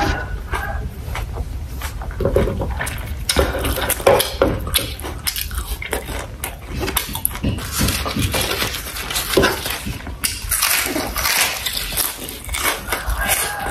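Close-up wet chewing and mouth sounds of a person eating sausage with rice and vegetables, with irregular smacks and clicks.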